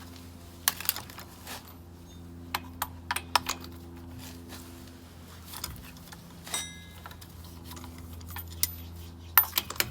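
Metal hand tools such as sockets and a wrench clinking and clattering in scattered sharp clicks, with one ringing metallic clank about six and a half seconds in, over a steady low hum.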